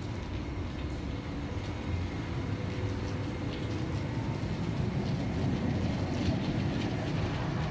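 Roslagsbanan X10p electric multiple unit pulling out along the platform close by: a steady low rumble of wheels and running gear with scattered faint clicks, growing a little louder about five seconds in.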